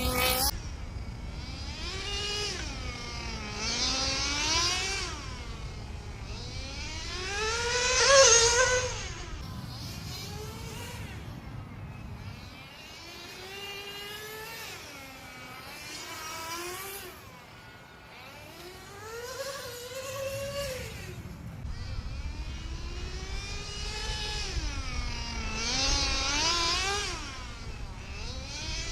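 Novarossi CX12 two-stroke glow engine in a 1/10 nitro RC car, revving up and down again and again as the car laps the track, its pitch rising and falling with each burst of throttle. It is loudest as the car passes close, about eight seconds in.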